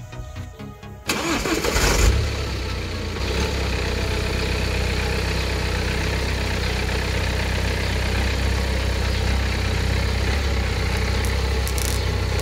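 Music cuts off about a second in as a BMW car's engine starts, flaring up briefly and then settling into a steady idle. Near the end come a few short sharp cracks as the tyre rolls onto ping-pong balls and crushes them.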